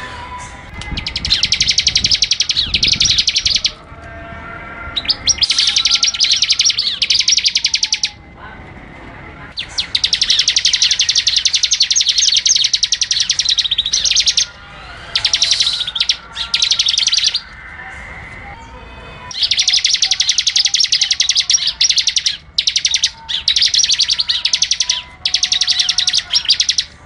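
A songbird singing long phrases of very fast, rapidly repeated notes, each phrase lasting a few seconds with short pauses between them. Fainter bird calls are heard in the gaps.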